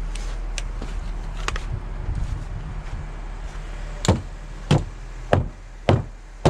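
A steady low hum, then from about four seconds in a regular series of sharp knocks, roughly one every 0.6 seconds.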